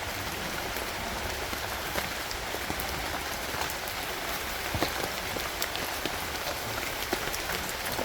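Steady rainfall, with scattered sharper ticks of individual drops.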